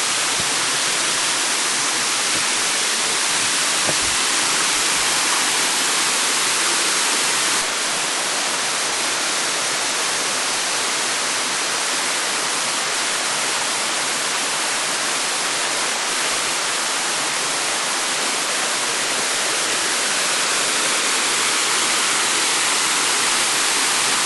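Waterfall: a steady rush of falling water, a hiss weighted toward the high end, easing slightly about eight seconds in.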